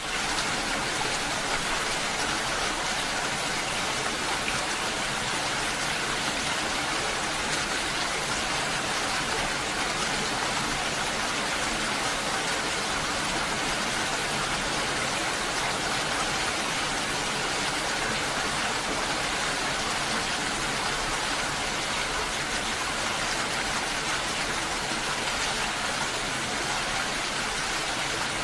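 Steady, heavy rain falling, an even continuous hiss with no change in strength.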